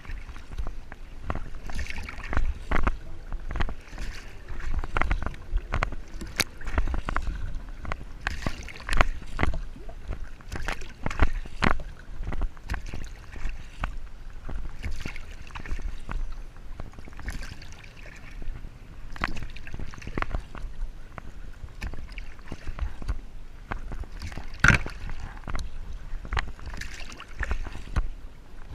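Kayak on the water: irregular paddle splashes and water sloshing against the hull, with sharp knocks mixed in.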